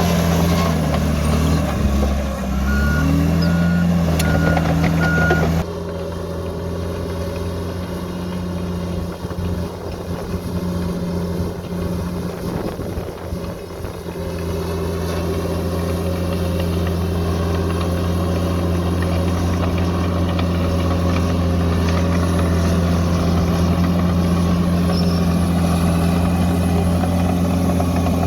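Bulldozer's diesel engine working, its pitch sagging and recovering under load in the first seconds. A few evenly spaced warning beeps sound a few seconds in. The engine then runs on steadily after a sudden drop in level.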